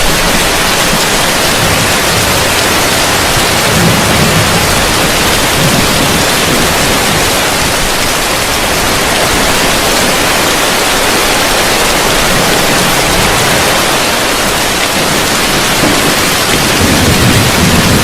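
Heavy rain falling on a roof: a dense, steady hiss, with a low rumble swelling briefly about four seconds in and again near the end.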